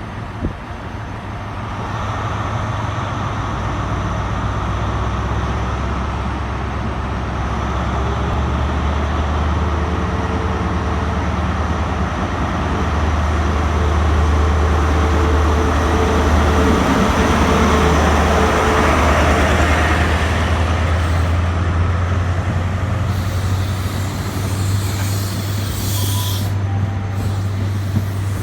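Diesel engines of a CrossCountry HST's Class 43 power cars working hard as the train pulls out, a deep steady engine note building louder over the first twenty seconds or so. A hiss of air joins near the end.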